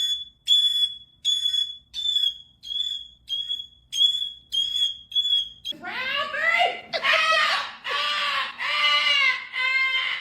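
A run of about nine evenly spaced, high, alarm-like beeps. About two-thirds of the way in, a parrot breaks into loud, repeated screeches that bend in pitch.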